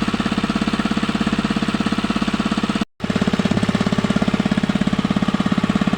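A small single-cylinder engine running steadily with a rapid, even chugging, cut off for a moment just before the middle by a brief silence.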